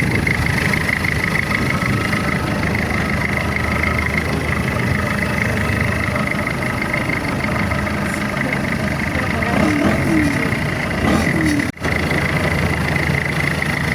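Boat engine running steadily while the boat is under way, with a brief dropout for an instant near the end.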